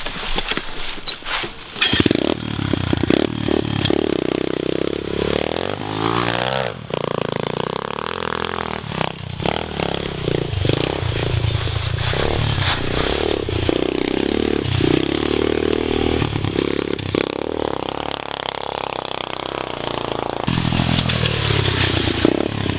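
Dirt bike engine revving up and down as it is ridden hard, its pitch climbing and dropping again and again with throttle and gear changes. Sharp clattering fills the first couple of seconds before the engine comes in.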